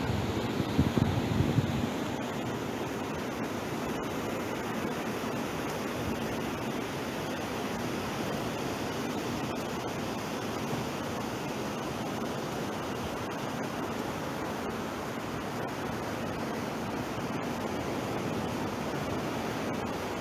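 Ocean surf washing onto the beach: a steady rushing hiss, with a louder low rumble in the first two seconds.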